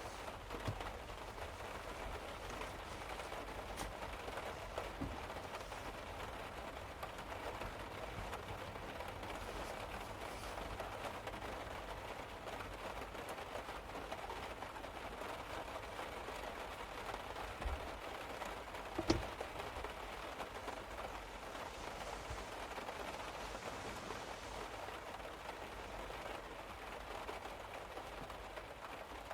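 Steady rain falling on a car's roof, heard from inside the car. A few light knocks cut through it, and the sharpest comes about two-thirds of the way through.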